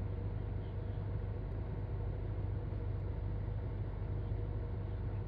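A steady low mechanical hum with a faint rushing noise, unchanging throughout.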